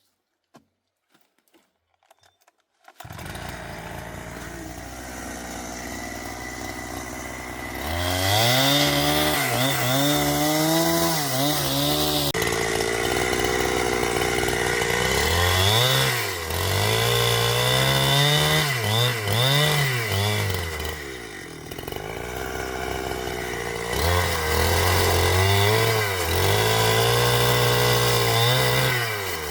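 Chainsaw starting to run about three seconds in, then loud from about eight seconds as it is repeatedly revved up and down, its engine note rising and falling.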